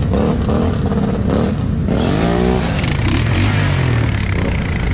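ATV engine running, revving up sharply and dropping back about two seconds in, then settling lower.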